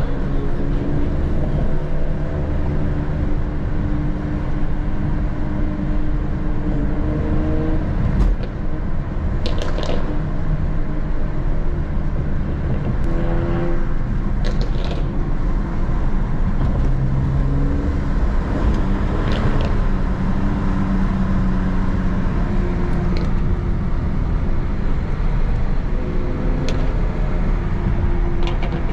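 A car being driven: steady engine drone and road rumble, the engine's pitch drifting up and down with speed, with a few brief knocks along the way.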